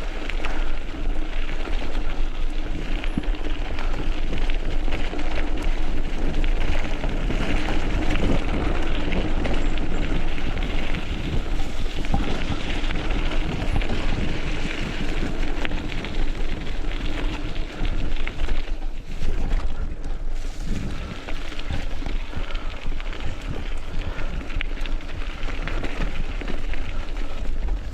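Wind buffeting the microphone while riding a bike: a steady low rumble with crackling noise from rolling over the ground.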